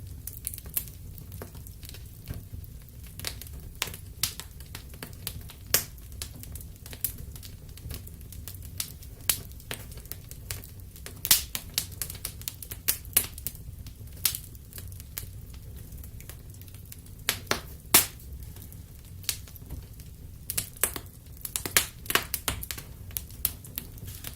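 Campfire crackling: irregular sharp pops and snaps, a few much louder than the rest, over a steady low rumble.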